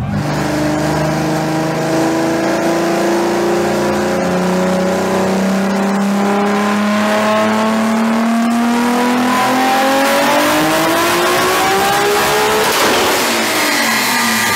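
Toyota Supra Mk4's inline-six engine revving up through a long, steady pull on a chassis dynamometer, its pitch climbing slowly and evenly for about thirteen seconds before the run breaks off near the end.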